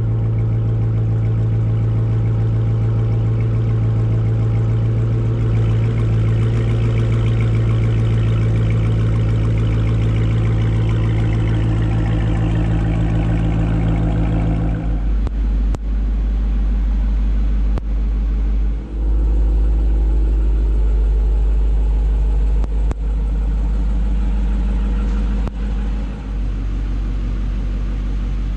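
The 2023 Dodge Charger R/T's 5.7-litre HEMI V8 running at a raised idle just after starting. About halfway through, the engine note drops to a lower, deeper idle, with a few sharp clicks over it.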